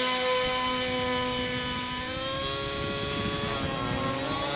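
T-Rex 700 RC helicopter's nitro glow engine and rotor running steadily in flight, the pitch sagging a little about halfway and climbing again near the end. The pilots judge the mixture still a little rich.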